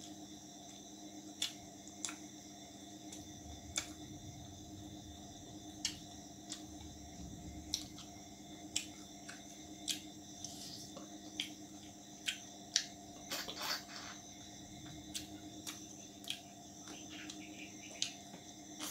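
A person eating roti and chicken curry by hand: sharp wet chewing clicks and smacks, about one a second, with a denser flurry about two-thirds of the way in, over a steady background hum.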